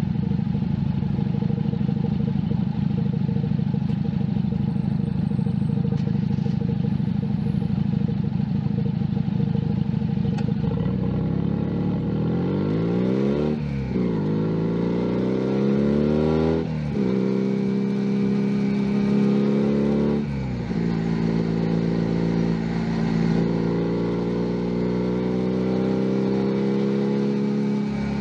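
Junak M11 Cafe 125 cc motorcycle engine running steadily at low revs. About ten seconds in it pulls away: the revs rise, with three upshifts where the pitch drops suddenly, then it settles into a steady, slowly climbing cruise.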